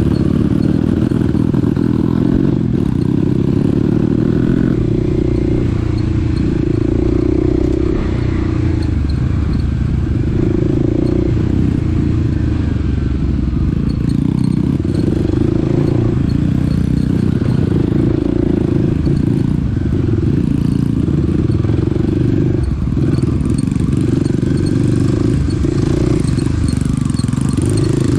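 Small dirt bike's engine running while being ridden, its speed rising and falling.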